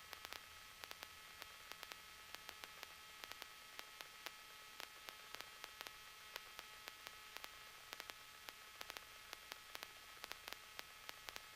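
Near silence: faint static hiss with many small scattered clicks and a faint steady tone, the open cockpit intercom line with nobody talking.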